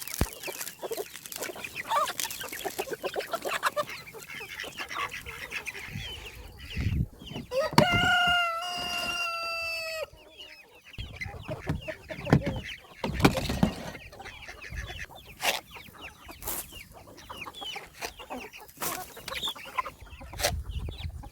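Backyard chickens clucking over food thrown to them, with a rooster crowing once, a drawn-out call of about two seconds, around eight seconds in.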